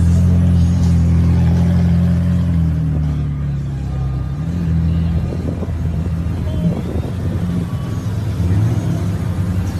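Supercar engines running at low speed. A deep, steady note holds for about three seconds, then turns rougher and uneven as the cars creep past.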